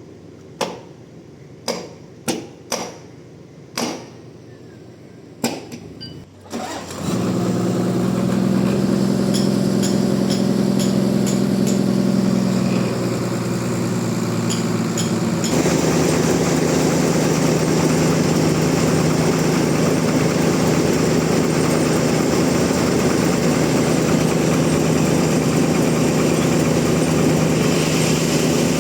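A series of sharp knocks, then an engine starts about seven seconds in and runs steadily; about halfway through it becomes louder and noisier and stays that way.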